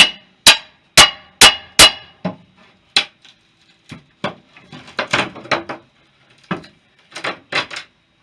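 Five sharp metallic strikes in quick even succession, each with a short ringing tone, followed by looser clanking and clattering of metal about halfway through and again near the end.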